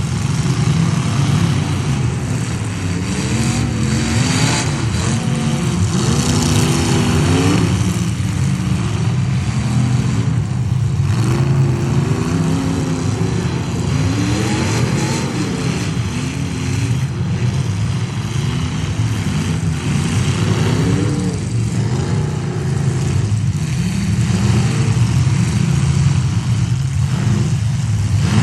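Several demolition derby trucks' engines revving together, their pitches rising and falling again and again as the trucks accelerate and back off, loud and continuous.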